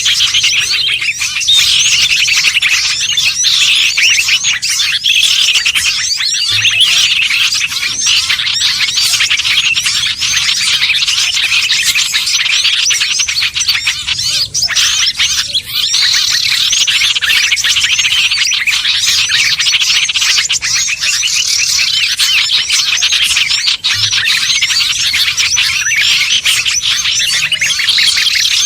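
A dense chorus of many small songbirds chirping and twittering over one another without a break. It is a bird-trapping lure call recording (suara pikat) mixed from small birds such as bulbuls, prinias and sunbirds.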